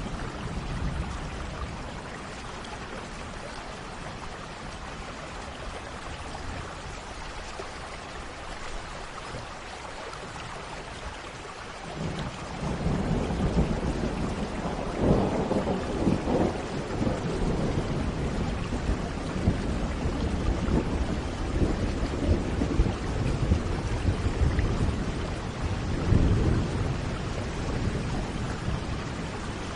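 Thunderstorm: steady rain falling, with a low roll of thunder that builds about twelve seconds in and keeps rumbling, swelling several times.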